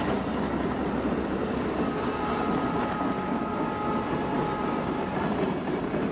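Passenger train coaches rolling past on the rails with a steady rumble, and a faint high whine from about two to five seconds in.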